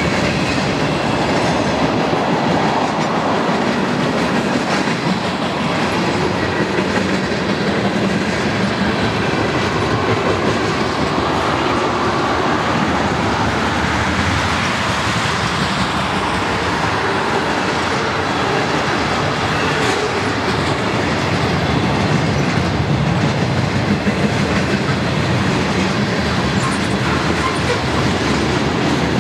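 A freight train's cars, mostly tank cars, rolling past at track side: a steady, continuous noise of steel wheels running on the rails.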